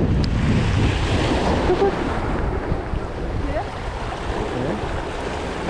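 Wind buffeting the microphone over sea waves washing against the shore, a steady rumbling rush, with faint voices in the distance.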